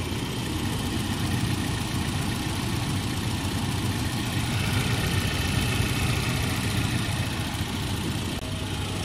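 1993 Volvo 240's 2.3-litre four-cylinder engine idling steadily with the hood open. It is left running to bleed air from a freshly refilled cooling system.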